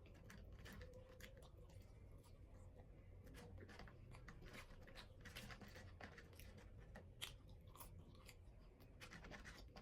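A person chewing food close to the microphone: quiet, irregular crunches and small mouth clicks.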